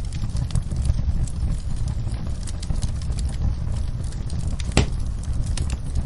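Wood fire in a fireplace crackling, with many small pops over a low steady rumble and one louder pop near the end.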